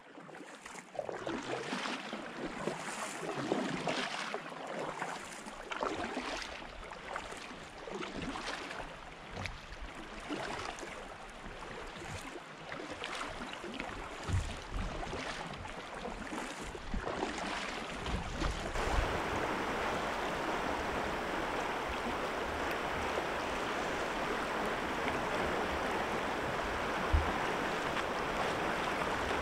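Water moving around a kayak on a river: regular swishing about once a second, then, from about two-thirds in, a sudden change to a steady, even rush of water.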